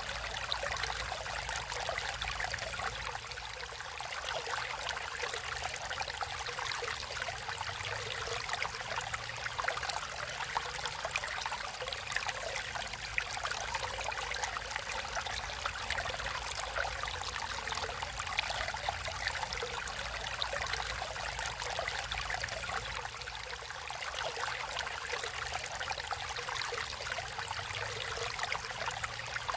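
Water flowing and trickling steadily over rocks in a stream, a continuous bubbling rush.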